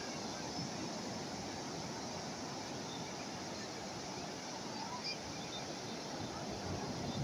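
Calm sea waves washing steadily on the shore.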